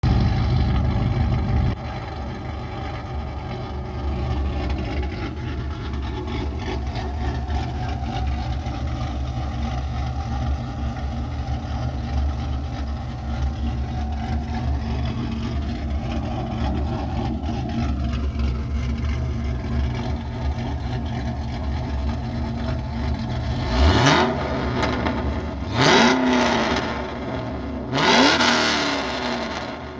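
2008 Pontiac G8 GT's 6.0-litre V8 with a BTR stage 3 truck cam and OBX headers and exhaust, idling with a choppy cam lope, a little louder for the first couple of seconds. Near the end it is blipped three times, each rev rising quickly and falling back to idle.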